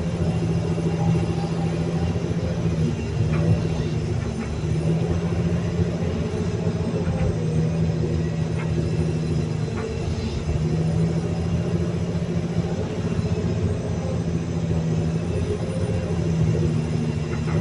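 Caterpillar 320D2 L excavator's diesel engine and hydraulic pump running steadily under a hydraulic load, the engine holding its speed; the operator takes this as good power after adjusting the pump flow. The engine note dips briefly a few times.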